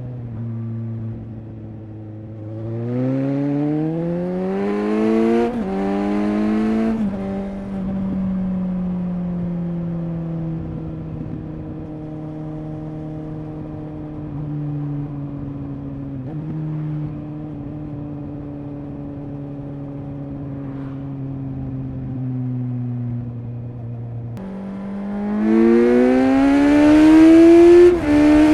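Suzuki GSX-S 750 inline-four motorcycle engine and exhaust under way. The pitch climbs with a quick dip at a gear change a few seconds in, then holds at an even cruise for a long stretch. Near the end the engine pulls hard again, rising in pitch and getting louder.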